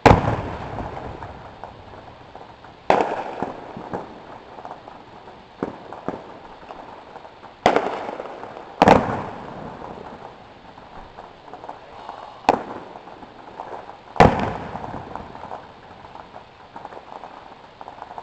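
Aerial fireworks bursting: about five loud booms, two of them close together in the middle, each trailing off over a second or two, with smaller pops and crackling between them.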